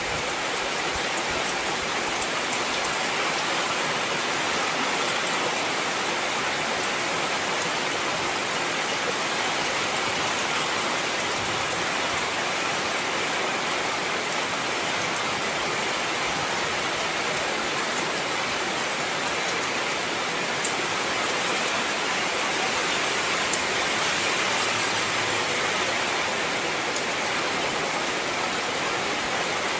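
Heavy rain falling steadily, an even hiss of many drops, with a few sharper drop ticks scattered through it.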